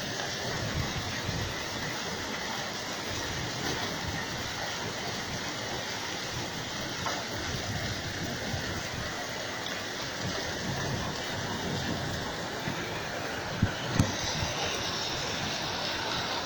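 Heavy rain falling steadily during a thunderstorm, with two sharp knocks close together near the end.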